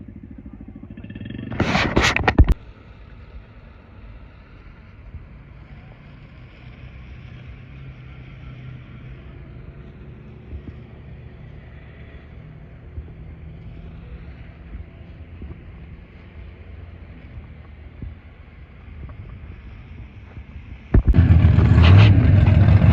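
Mud truck engines: a brief loud burst about two seconds in, then a faint steady engine hum, and near the end an engine suddenly coming in loud and low, a truck powering on.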